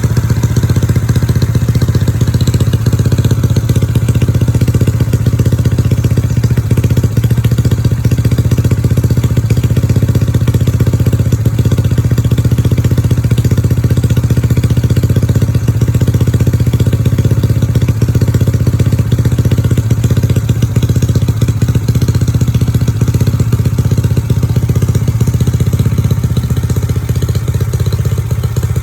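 Honda Vario 125 scooter engine, bored up to 150cc, idling through an aftermarket racing exhaust. The sound is loud and steady with a fast, even pulse, and is not revved.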